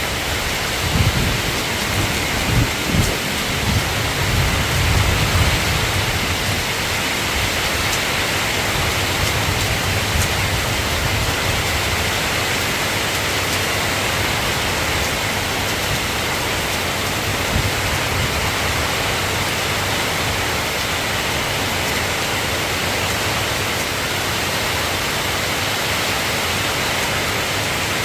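Steady rain falling, with a low rumble of thunder during the first few seconds.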